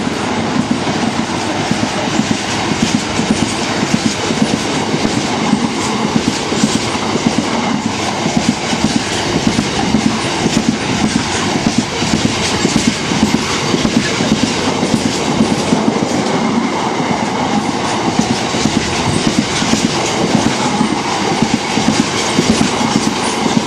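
A long biomass freight train hauled by a Class 66 diesel passes close by, its wagons rolling through with a steady rapid clickety-clack of wheels over the rail joints.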